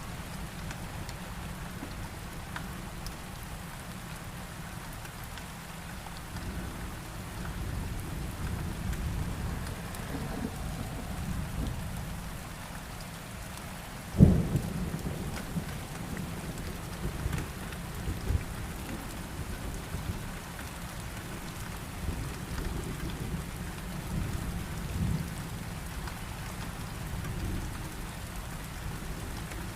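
Steady heavy rain with thunder: low rolling rumbles come and go, and a sharp thunderclap about halfway through is the loudest moment, followed by more rumbling.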